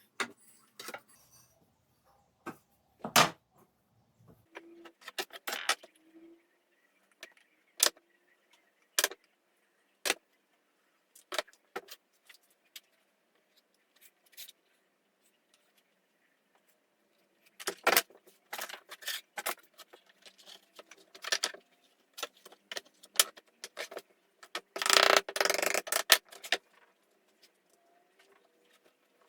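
Scattered clicks, knocks and clinks of tools and small metal parts being handled on a workbench, with a longer, louder scraping clatter about 25 seconds in.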